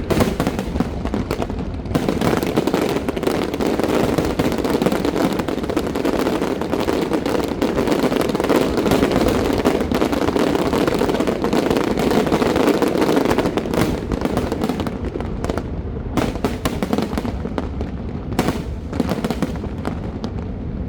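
Aerial fireworks exploding, many bangs in quick succession that merge into a continuous barrage. About two-thirds of the way in the barrage thins out into separate bangs.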